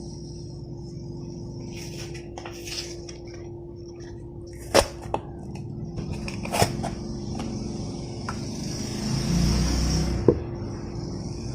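Kitchen handling sounds: a few sharp clicks and knocks of kitchenware, with some rustling, over a steady hum.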